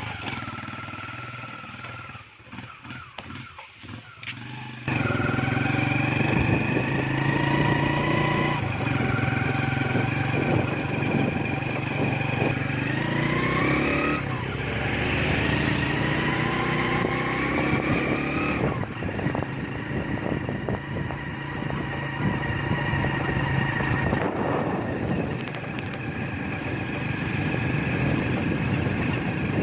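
Small single-cylinder four-stroke engine of a Honda Benly CD90 motorcycle running, coming in loudly about five seconds in after a few quieter knocks. It is revved so that its pitch rises several times midway, then it settles back to a steady run.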